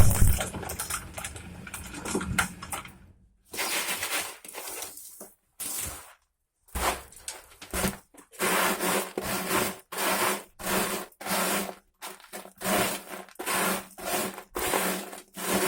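Shredder crusher grinding and scraping material in a series of short rasping bursts with brief gaps between them, a steady low hum under the bursts.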